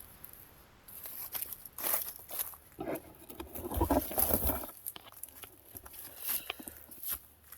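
Irregular rustling and crunching from someone moving about a garden bed and handling plants, with a cluster of soft low thuds about four seconds in.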